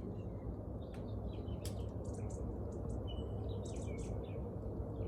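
Small birds chirping: many short, quick calls and twittering notes, several overlapping, over a steady low rumble.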